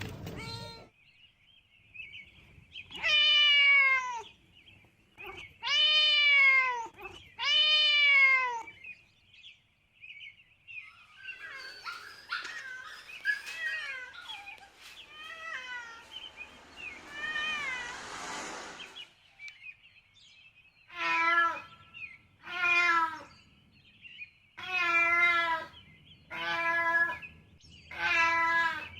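Cats meowing: three loud, drawn-out meows in the first third, then quieter mixed calls, and a run of shorter calls close together near the end.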